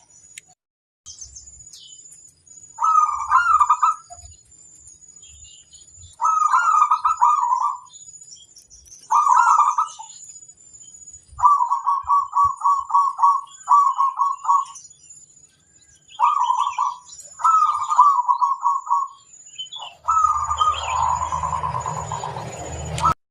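Zebra dove (perkutut) cooing: about eight short, bubbling phrases at much the same pitch, a second or two apart. One phrase about halfway through is a quick string of short notes, and the last, longer phrase near the end has a rougher noise under it.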